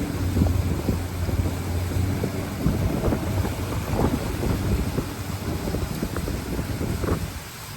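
River boat's motor running with a steady low hum, with wind buffeting the microphone and rushing water. The sound drops away near the end.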